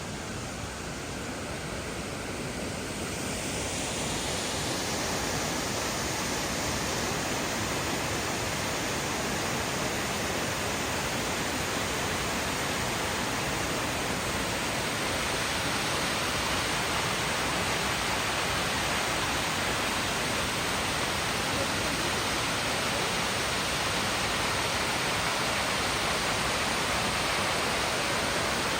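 Waterfall rushing, a steady dense roar that grows louder and brighter over the first few seconds, then holds steady.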